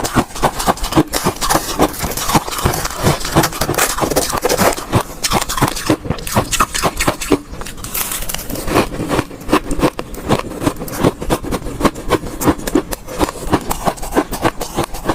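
Ice cubes being bitten and chewed close to the microphone: a loud, continuous run of sharp, irregular crunches and cracks, several a second.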